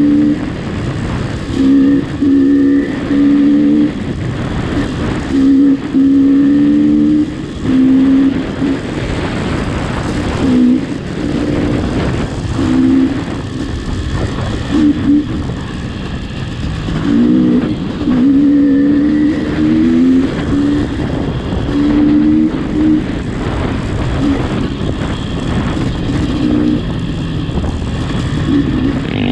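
A motor vehicle's engine running under way, its low hum swelling and fading every second or two, over a steady rushing noise.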